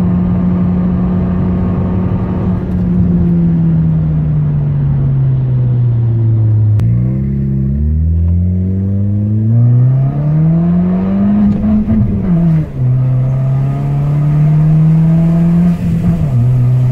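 Hyundai Elantra's naturally aspirated 1.6-litre petrol engine, converted to run on LPG, heard from inside the cabin. The engine note eases down as the car slows, then climbs under acceleration. The pitch drops sharply at two gear changes, about two-thirds of the way through and near the end.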